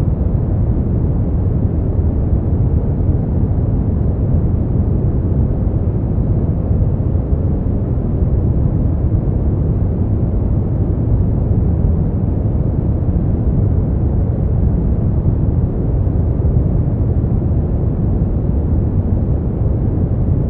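Brown noise: a steady, deep rumbling hiss, strongest in the low bass and falling away towards the treble, unchanging throughout.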